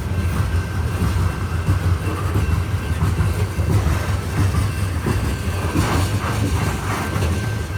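Loaded coal cars of a slow freight train rolling past: a steady low rumble of steel wheels on rail with scattered clacks, and a faint thin high squeal over it.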